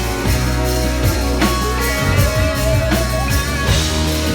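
A rock band playing an instrumental passage: electric guitar over bass and a drum kit keeping a steady beat.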